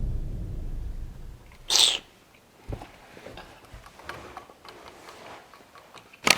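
A low rumble fades out, then a short, loud hissing burst about two seconds in, followed by faint scattered clicks and a sharp click near the end.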